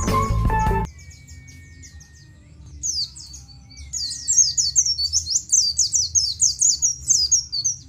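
A white-eye (pleci) singing a fast run of high, sharp chirps that grows dense and loud from about four seconds in. It follows a short, loud burst of other sound in the first second.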